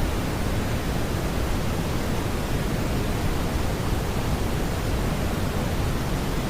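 Steady smoothed brown noise: an even, unbroken hiss weighted toward the low end, with no tones or beats in it.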